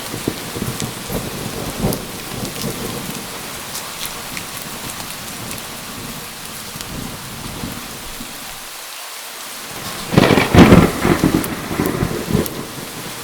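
Steady rain with low rolling thunder, and a loud, crackling thunderclap about ten seconds in that rumbles on toward the end.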